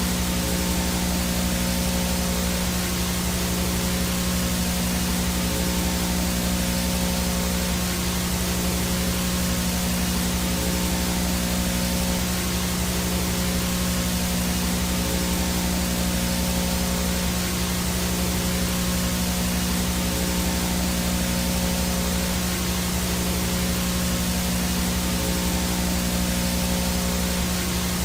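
VHS static: a steady, even hiss of analog video noise with a low electrical hum under it and a thin high whine above, unchanging throughout.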